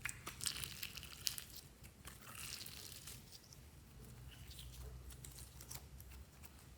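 Hands stretching and squishing glossy slime: faint sticky crackling with small irregular pops, busier in the first couple of seconds and sparser after.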